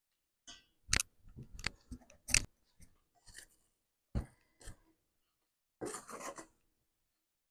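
Kitchen utensils knocking and clinking against a bowl or pot: a run of sharp knocks, loudest about a second and two and a half seconds in, then a brief scraping rustle about six seconds in.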